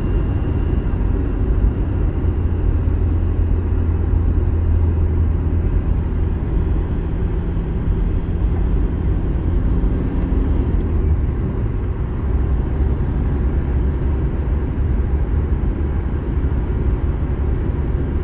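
Car driving along a road: a steady low rumble of engine and tyres, the engine note changing about eleven seconds in.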